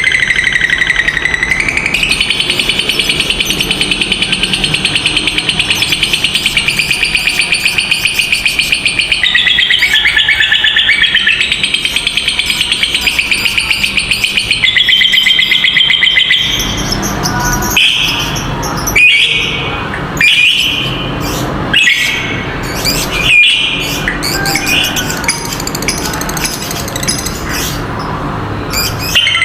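Lovebirds giving a long, rapid chattering trill, the 'ngekek panjang' prized by keepers, unbroken for about sixteen seconds. It then breaks into separate sharp, shrill chirps.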